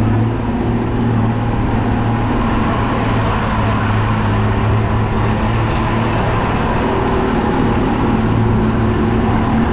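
Glass-bottom tour boat's engines running steadily under way: a constant low drone with an even rushing noise over it.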